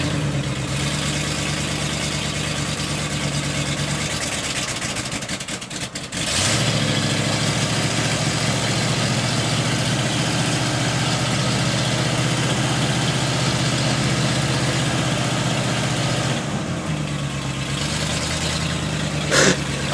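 1976 Ford F100 pickup engine idling at the tailpipe, running steadily. Its sound dips about five seconds in, then comes back louder.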